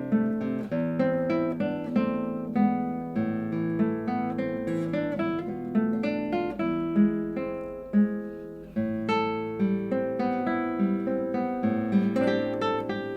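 Solo classical guitar playing a piece of plucked melody notes over held bass notes, with a short lull just before the bass comes back in about two-thirds of the way through.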